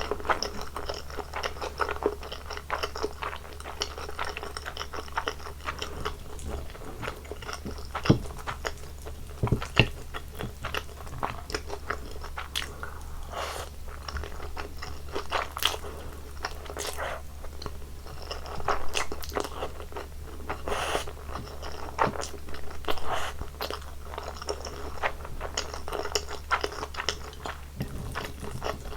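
Close-miked eating sounds: a person chewing and biting food, with crunchy, crackling bites scattered irregularly through the chewing.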